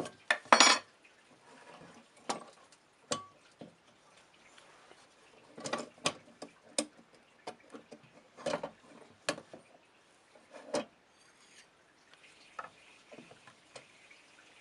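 Irregular clicks and knocks of small hard objects being handled and set down, a dozen or so, the loudest a short clattering rattle just under a second in.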